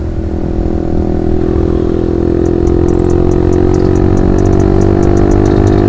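Honda Supra GTR 150 motorcycle's single-cylinder engine running under way at a steady speed, its pitch creeping slightly higher through the second half.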